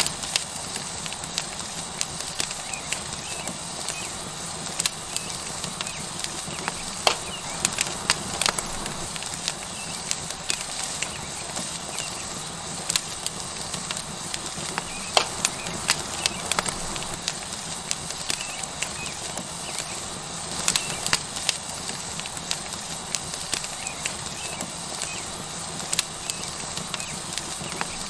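Tomahawk steak sizzling on a hot rock over a wood fire, a steady hiss with the wood fire crackling and popping irregularly throughout.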